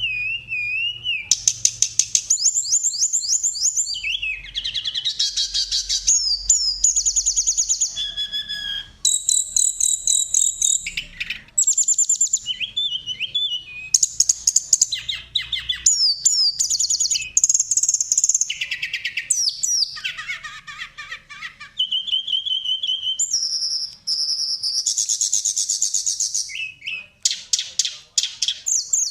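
Songbird songs and calls from several species spliced into one masteran training track: high chirps, rapid trills and whistles, switching abruptly to a different song every second or two.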